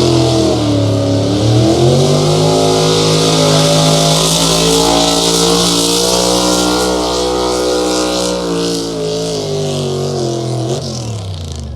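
Pulling vehicle's engine at full throttle under load. Its pitch dips briefly about a second in, climbs and holds high, then falls away near the end as the throttle is cut.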